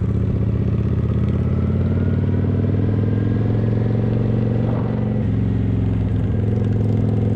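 Kawasaki motorcycle engine running steadily while riding, with a brief dip in pitch about five seconds in.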